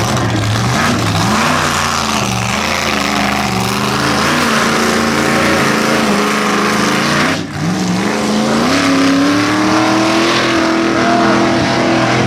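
Mega truck engine revving hard under load, its pitch climbing. About seven and a half seconds in the sound drops out for an instant, then the engine climbs in pitch again.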